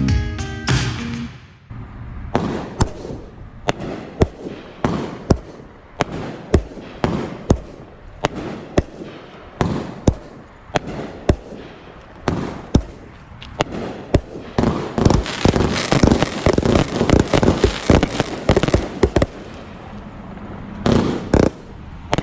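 Consumer fireworks going off: a string of sharp reports about two a second, thickening into a dense crackling barrage in the second half, with a last cluster of bangs near the end.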